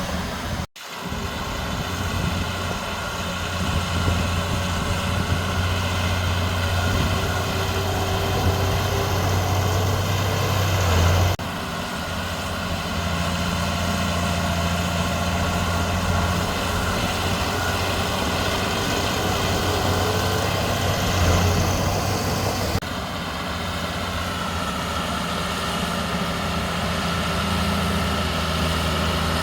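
Heavy diesel earthmoving machinery engine running steadily, with a brief dropout about a second in and sudden shifts in the engine sound at about 11 and 23 seconds in.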